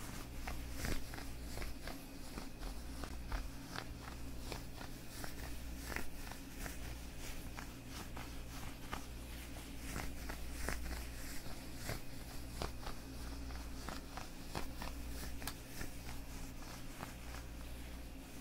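Leather gloves on the hands being rubbed and flexed: irregular creaks and crackles, a few each second, over a steady low hum.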